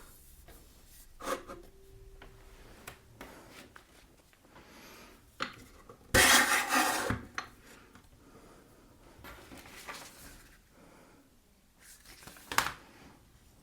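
Metal parts of a bench pillar drill being handled and adjusted: a few sharp metallic clinks and taps, with one louder scraping rub about six seconds in as the parallel stop is worked in the table's grooves.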